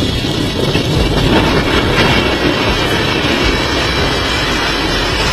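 Two anar (flowerpot) fireworks burning, a loud steady hissing rush of spraying sparks.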